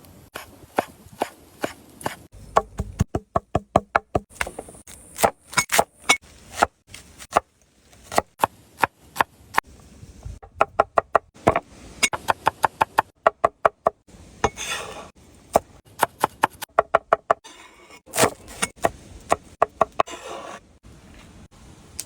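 A knife chopping on a cutting board, in quick runs of sharp strikes at about five a second with short pauses between runs.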